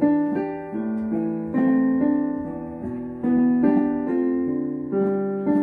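Gentle piano introduction to a song, with held chords and melody notes changing every half second or so.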